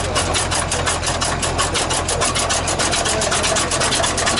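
Old tractor engine running at low speed, a steady putter of about ten even beats a second.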